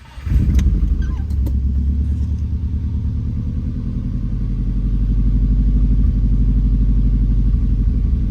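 Subaru WRX STI's EJ25 turbocharged flat-four engine starting just after the outset, then idling steadily with an even, pulsing beat. It is being run to check for a cylinder 4 misfire after a new ignition coil was fitted.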